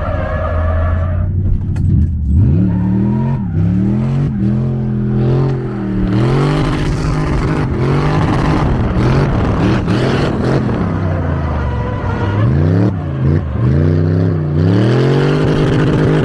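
A drift car's engine, about 350 to 400 horsepower, revving hard and falling back again and again as it is driven through a drift, its pitch rising and dropping over and over. Tyres squeal near the start.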